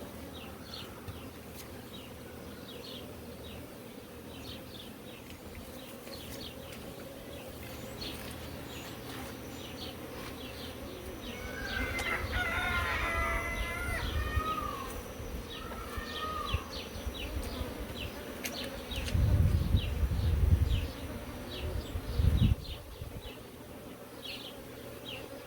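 Honeybees from an opened hive buzzing steadily around the frames. About twelve seconds in a bird calls for a couple of seconds, and later come several deep rumbles on the microphone, the loudest sounds here.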